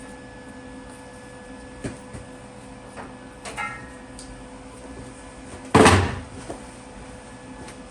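Steel workpieces being handled on a workbench: a few light clicks, a short ringing metallic clink about three and a half seconds in, and a loud clunk near six seconds, over a faint steady hum.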